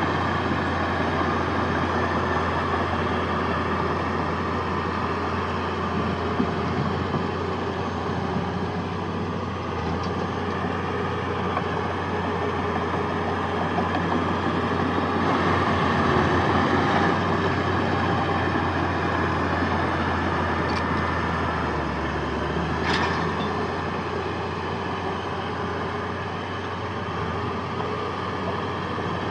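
Heavy diesel earthmoving machinery running steadily under load, with a few sharp metallic clanks around ten, twenty-one and twenty-three seconds in.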